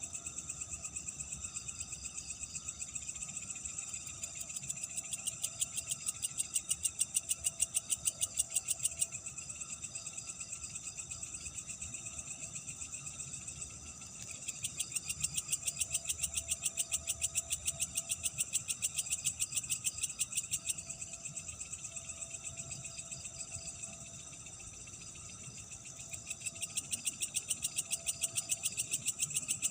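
Night insects chirping: a fast, high pulsing trill comes in three bouts of several seconds each over a steady high-pitched insect drone.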